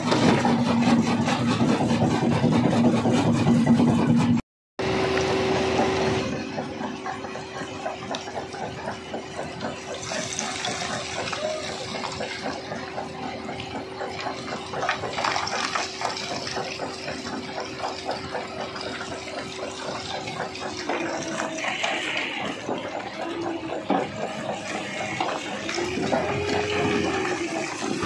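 Rock-crusher machinery running with a steady hum. A sudden cut about four and a half seconds in gives way to a higher steady hum over a rushing, water-like noise; the hum falls away about twenty seconds in.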